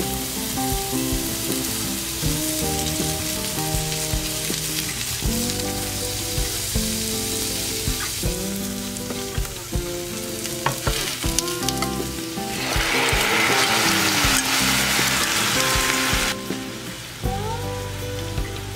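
Sliced onion and king oyster mushrooms sizzling in hot oil in a nonstick pan, stirred with a silicone spatula. About two-thirds through, the hiss turns louder for a few seconds as cooked spaghetti and leftover pasta water are shaken into the hot pan.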